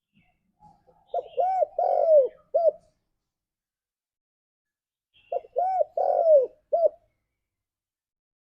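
Spotted dove cooing its call to other doves: two phrases about four seconds apart, each of four arching coos with the third the longest.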